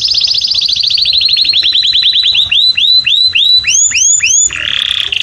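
Domestic canary singing: a fast trill of repeated notes that slows into a few separate swooping notes about three a second, then switches to a rapid buzzy trill near the end.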